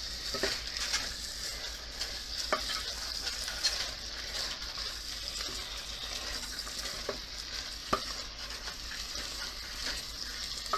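Chicken and red bell pepper strips sizzling steadily in a pot while a wooden spatula stirs them, with a few light knocks of the spatula against the pot.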